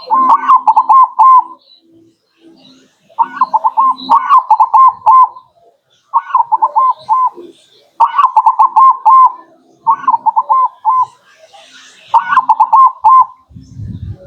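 Zebra dove (perkutut) singing its cooing song: repeated phrases of quick, stuttering coos about a second long, with short pauses between. A brief low rumble comes near the end.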